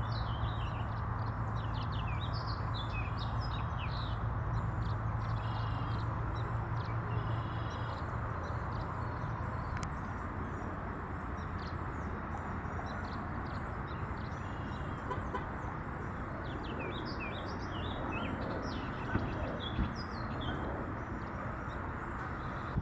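Small birds chirping in quick bursts of short calls, busiest at the start and again in the second half, over a steady low outdoor rumble.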